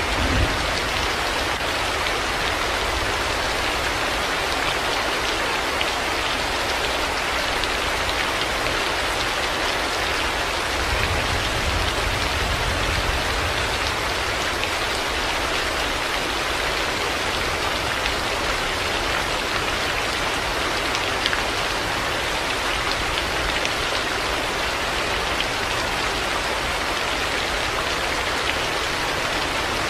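Heavy rain falling steadily, a dense, even hiss of drops, with a brief low rumble about a third of the way in.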